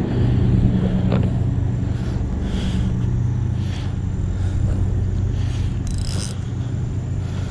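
A steady low engine hum, like a motor vehicle running close by, with light scraping and a short hiss about six seconds in.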